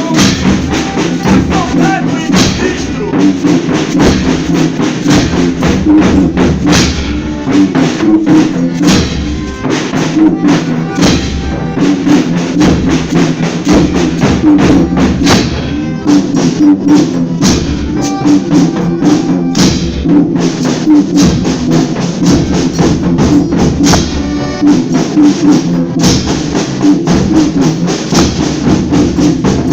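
Folia band playing an instrumental stretch between sung verses: drums and tambourine keeping a steady beat over sustained instrument tones.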